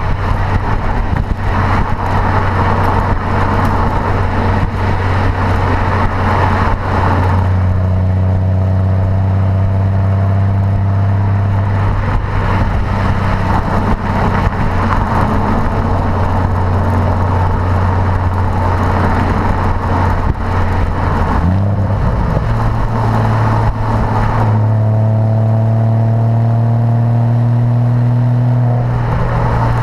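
Porsche Boxster engine running through a performance sports exhaust, a steady deep drone at constant revs with road noise beneath. The pitch steps up slightly about two-thirds of the way through.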